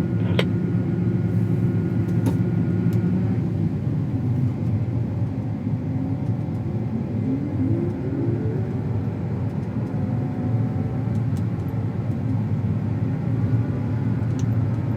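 Large diesel harvest-machinery engine running steadily, a deep drone, with a rising tone near the middle.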